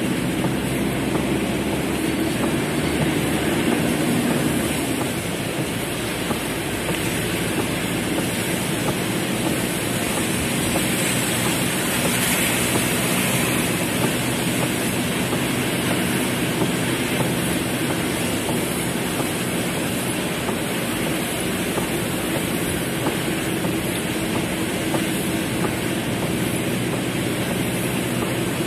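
Heavy rain drumming steadily on a car's roof and windows, heard from inside the cabin, with a faint low steady hum underneath.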